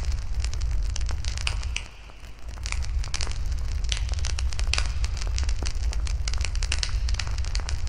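Wood fire burning in a fire pit, crackling with frequent irregular pops over a steady low rumble. The rumble briefly drops out about two seconds in.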